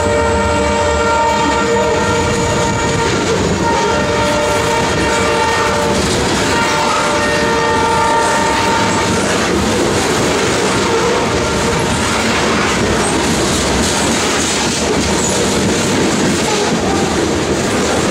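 Diesel freight locomotive air horn sounding a chord, with one short break, then stopping about halfway through. The long grain train then rumbles past, its car wheels clacking over the rail joints.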